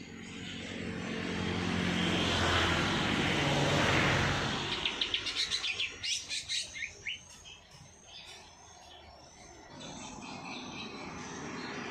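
A songbird giving a quick run of about a dozen sharp chirps that step down in pitch, over the swelling then fading drone of a passing engine.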